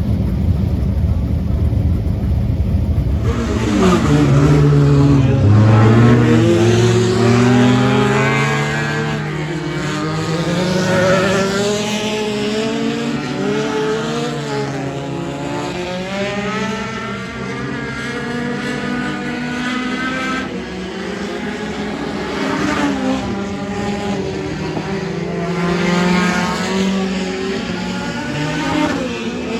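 Front-wheel-drive sport compact race car's engine: a low rumble for about three seconds, then the engine climbing in revs and easing off again and again as the car laps the track.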